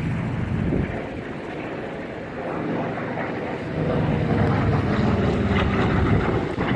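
WWII-era propeller warbird flying past with a steady engine drone, which grows louder about four seconds in.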